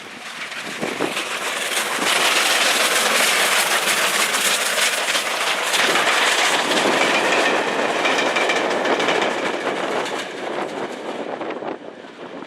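A train passing close by, its wheels clattering over the rail joints. The noise builds over the first couple of seconds, stays loud for about eight seconds, then fades.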